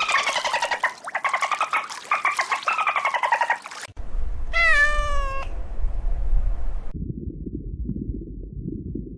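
A rapid rattling animal call sounds several times in falling phrases, then a cat meows once, falling in pitch, about halfway in over a low rumble.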